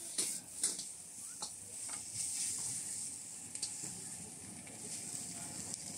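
Food sizzling steadily as it fries in a hot pan, with a few sharp clicks of a utensil striking the pan, most of them in the first two seconds.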